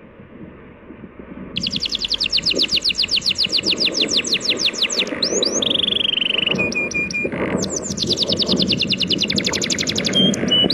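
A songbird singing over the steady wash of sea waves. From about a second and a half in, it gives a fast trill of repeated notes followed by a few short whistles, and repeats the phrase once.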